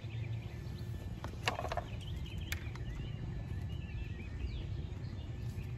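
Faint birds chirping over steady low outdoor background noise. A brief louder sound comes about a second and a half in, and a sharp click follows a second later.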